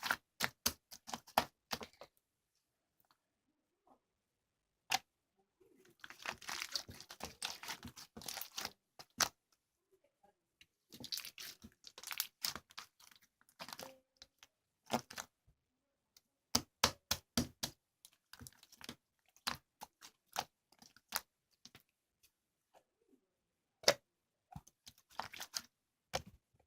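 Slime mixed with clay slime being squeezed, stretched and poked by hand, giving clusters of sharp clicks and crackling pops, with short pauses between handlings.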